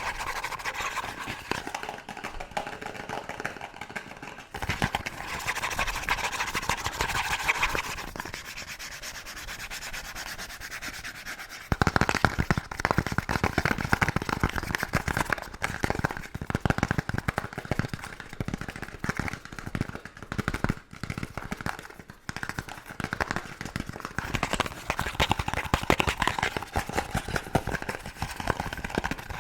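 Fast, hard scratching on an object's surface, changing texture a few seconds in; from about twelve seconds in it grows louder, with rapid tapping mixed into the scratching.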